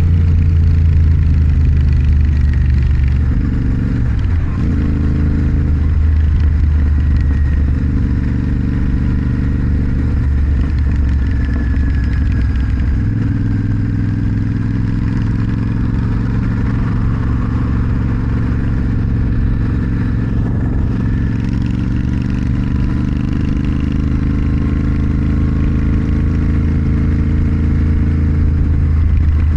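Motorcycle engine running under way, its note shifting a few times with throttle changes and dropping in pitch about 13 seconds in.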